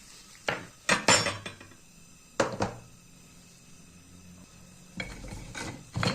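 Metal parts clanking and clinking as they are handled and set down: a cluster of knocks about a second in, a single clank a little later, and a few more near the end, each with a short metallic ring.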